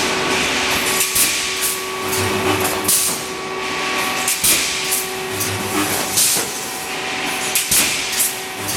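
Pneumatic wire mesh welding machine running: repeated sharp hisses of air from its pneumatic cylinders, with knocks and a steady machine hum, and a low electrical buzz now and then from the resistance-welding transformers.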